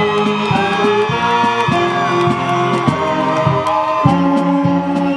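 Band music for a graduation processional: sustained chords that change every second or so, over a light ticking beat.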